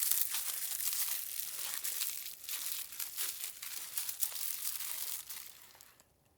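Dense, rapid crinkling and crackling that fades out about a second before the end.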